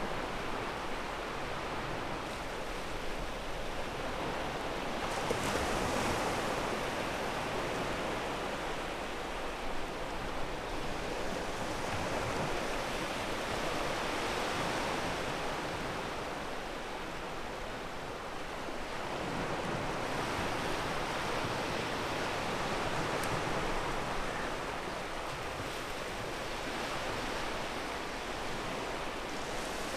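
Sea waves breaking and washing on a pebble beach: a continuous surf noise that swells and eases in surges several seconds apart.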